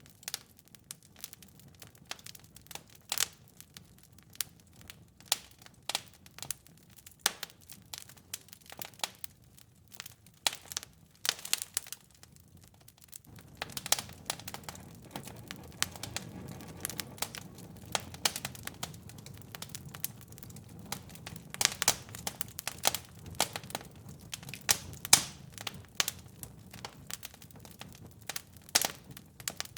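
Fireplace fire crackling and popping in irregular sharp snaps, over a low steady rumble of flame that grows fuller a little under halfway through.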